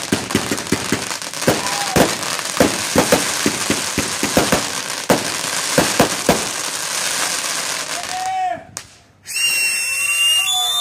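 Fireworks crackling with a rapid, irregular string of sharp pops over a steady hiss for about eight seconds, then cutting out. Near the end come several high whistling tones and people shouting.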